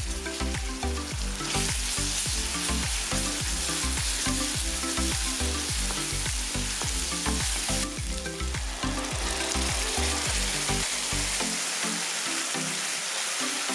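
Chopped onions and ginger-garlic paste sizzling in hot oil, stirred with a wooden spatula. A background music track with a steady beat of low notes runs underneath and drops out near the end.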